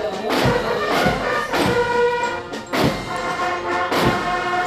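Military brass band playing a march, with steady, regular bass-drum beats under the held brass notes.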